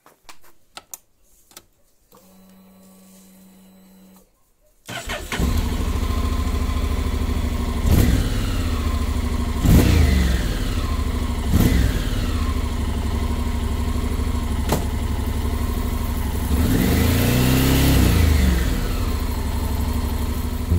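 Honda X-ADV's 745 cc parallel-twin engine starting about five seconds in, then idling with several short throttle blips and a longer rev near the end. Before it come a few faint clicks and a faint steady hum lasting about two seconds.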